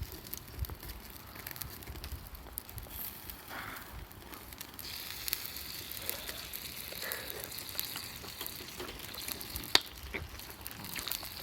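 Campfire crackling with scattered pops while chicken skin sizzles in a pan over it. The sizzle turns into a steadier hiss about five seconds in, with one sharp pop near the end.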